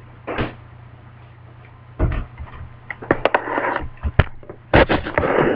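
A cup and drink being handled: a string of clicks and knocks with short noisy rushes in between, starting about two seconds in.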